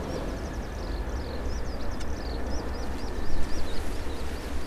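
A deep, unsteady outdoor rumble that swells a little after the middle, with a small bird chirping quickly and repeatedly above it.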